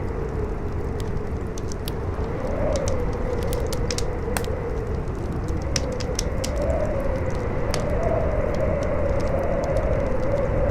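Howling wind, a wavering whistle that swells and falls over a low rumble, with a crackling fire giving many sharp pops and snaps.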